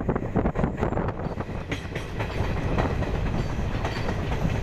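Moving passenger train heard from an open coach window: steady running rumble with the wheels knocking over rail joints at irregular intervals.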